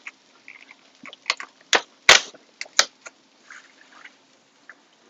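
Kitchen handling noises: a string of sharp clicks and knocks with light scrapes between, the loudest cluster about two seconds in.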